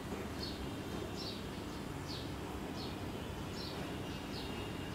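A small bird calling repeatedly in short, high chirps that fall in pitch, a little more than one a second, over faint outdoor background noise.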